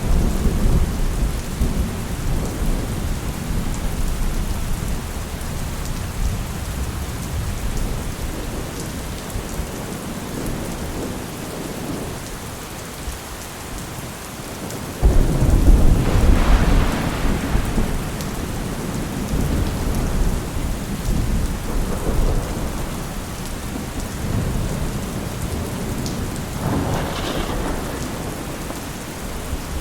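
Steady rain falling with thunder rumbling under it. About halfway a loud roll of thunder breaks in suddenly and rumbles on for several seconds; a smaller rumble comes near the end.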